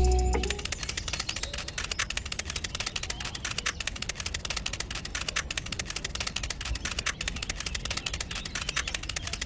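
Miniature clay bricks being set down side by side in sand, making a rapid, continuous run of small clicks and taps, many a second, as the laying runs sped up.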